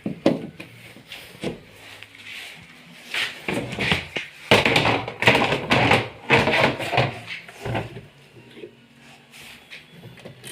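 Irregular knocks, clicks and scraping from hands working on a twin-tub washing machine, busiest in the middle; the motor is not running.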